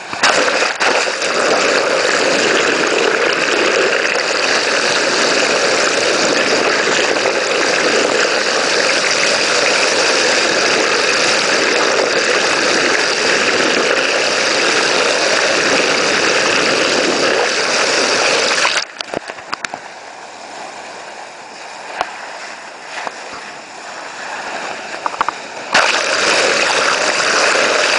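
Steady rush of water from a boat under way, loud and even; it drops off suddenly about two-thirds of the way through, leaving quieter splashing and clicks, then comes back loud near the end.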